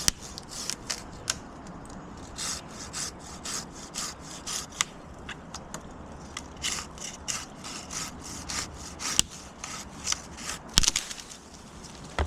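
Hand pruning saw cutting through a tree limb in uneven strokes, a few per second, with two sharper clicks about nine and eleven seconds in.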